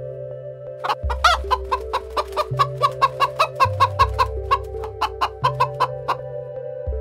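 Chickens feeding on grain: a quick run of short, sharp clicking sounds, about four or five a second, with one brief higher call about a second in. Soft background music with held chords runs under it.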